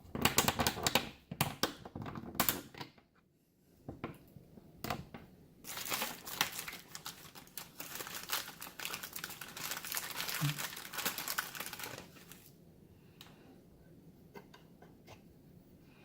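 Crinkling and crackling, first in short clusters of rustles, then a denser crackle for about six seconds that stops suddenly, followed by a few faint clicks.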